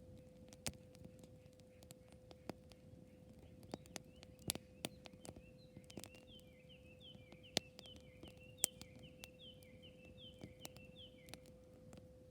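Wood fire crackling, with sharp irregular pops of burning wood. About halfway through, a bird sings a run of short, repeated falling notes for several seconds, over a faint steady hum.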